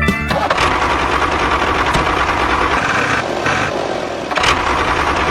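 Motor of a homemade miniature tractor running steadily.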